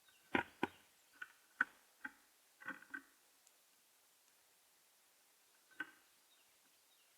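Irregular sharp clicks or taps: a quick run of about eight in the first three seconds, then one more near six seconds.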